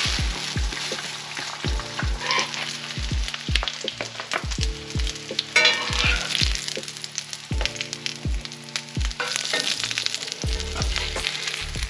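A pancake and eggs sizzling in cast-iron skillets, with a metal spatula scraping and clicking against the pan, most sharply about six seconds in. Background music with a steady low beat runs underneath.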